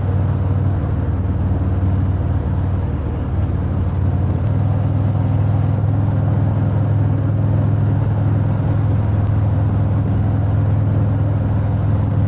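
Harley-Davidson touring motorcycle's V-twin engine running steadily at cruising speed, heard from the rider's seat. The engine note grows a little stronger about four and a half seconds in.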